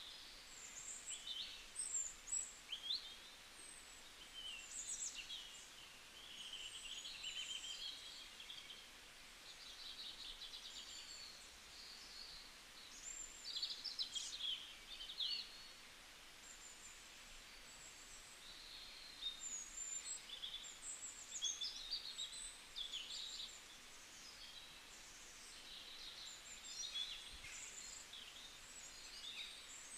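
Birds chirping: many short, high, quick calls in bursts throughout, over a faint steady hiss.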